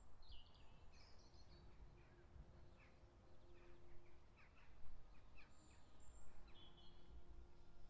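Birds chirping and calling, many short quick notes and falling sweeps, over a faint low outdoor rumble.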